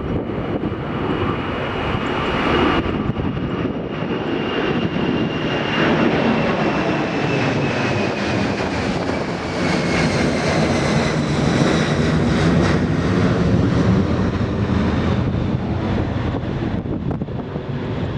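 Jet airliner's engines running loud and steady as it goes by, with a high fan whine that slowly falls in pitch.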